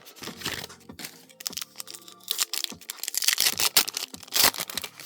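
Foil booster-pack wrapper crinkling and tearing open in quick crackly bursts, loudest about three to four and a half seconds in.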